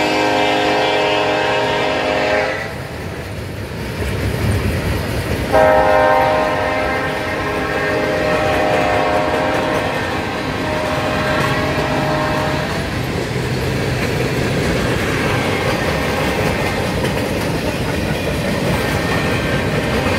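Norfolk Southern freight train passing: the diesel locomotive's multi-note air horn sounds until about two seconds in, stops, and sounds again from about five seconds in for some seven seconds. After that only the rumble and clatter of the freight cars' wheels rolling past is left.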